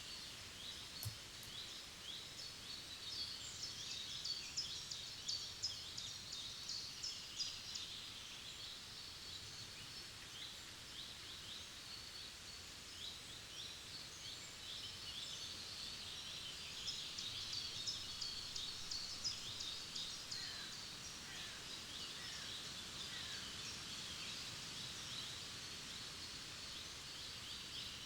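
Several songbirds singing together in a forest, many short high chirps and trills overlapping throughout.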